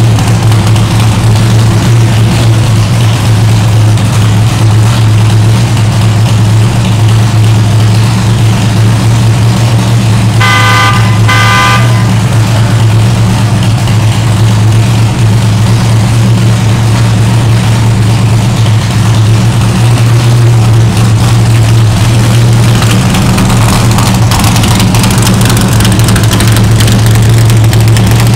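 1969 Chevrolet Corvette L88's 427 big-block V8 idling steadily and loud through its side-exit exhaust. About ten seconds in, a horn sounds two short toots.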